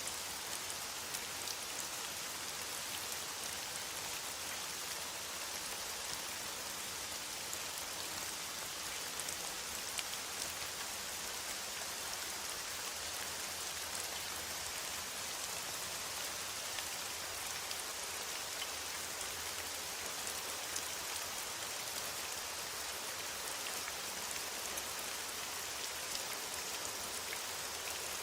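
Steady rain falling in a forest: an even hiss with scattered single drops ticking through it.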